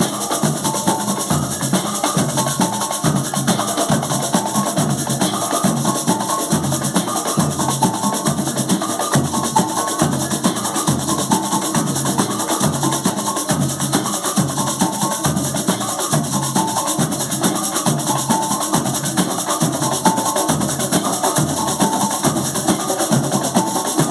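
Percussion ensemble rehearsing, drums and hand percussion playing a steady, repeating groove with short, higher clacking notes woven through it.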